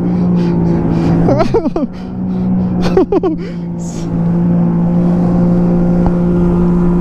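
Jet ski engine running at high speed with a steady drone, with brief voice calls about one and a half and three seconds in.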